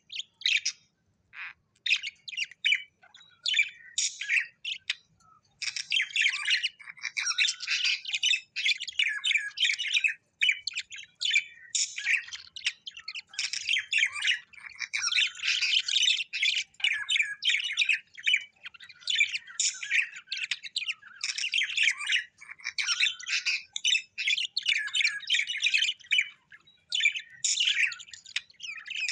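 Small parrots chattering and squawking in rapid, overlapping calls: a few scattered calls at first, then near-continuous chatter from about five seconds in.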